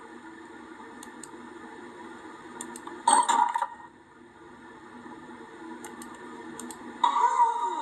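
Cartoon sound effects: a steady hum with faint clicks, broken by two loud clattering bursts, one about three seconds in and one near the end, the second with a falling squeal.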